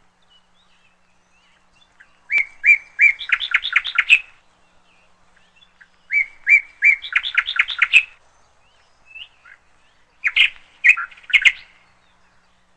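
A songbird singing three phrases a few seconds apart. Each phrase opens with a few evenly spaced clear notes and runs into a quick string of notes, and the last phrase is shorter.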